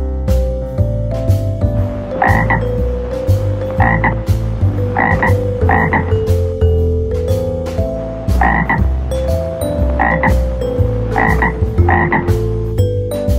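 A frog croaking, about eight short croaks, some in quick pairs, over background music with steady notes and a rhythmic bass line.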